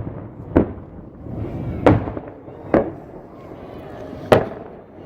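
Aerial fireworks shells bursting: four sharp bangs spaced irregularly about a second apart, each trailing off in an echo.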